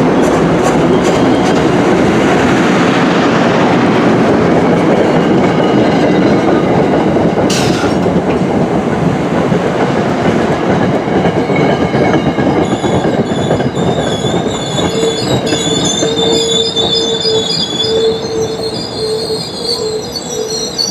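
MBTA commuter train rolling past, a loud steady rumble of wheels on rail. From about halfway through, high wheel squeal tones join in as the rumble slowly eases.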